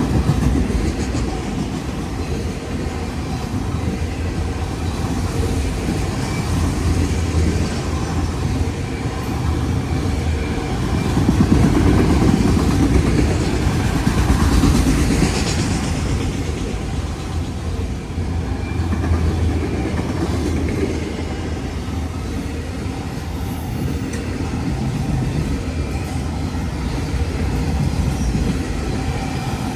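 Freight train cars rolling past, a steady rumble of wheels on rail that swells briefly about halfway through.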